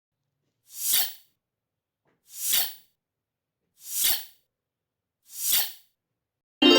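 Four short whooshing noise bursts, each swelling and fading, evenly spaced about a second and a half apart.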